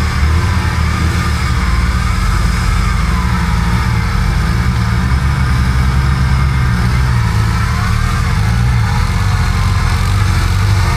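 Off-road 4x4's engine running steadily, its pitch wavering up and down as the revs change.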